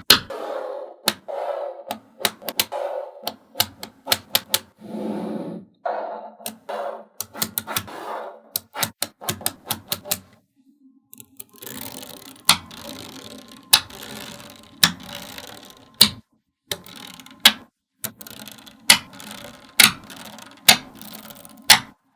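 Small magnetic balls clicking sharply as they snap together one by one, at an irregular pace, with softer rattling between the clicks. The clicking stops briefly a little before halfway.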